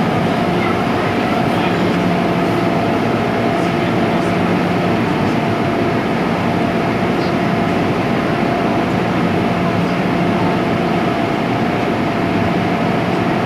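MTR Tsuen Wan Line M-Train electric multiple unit running between stations, heard from inside the car: a steady rumble of wheels on rail with a steady electrical hum.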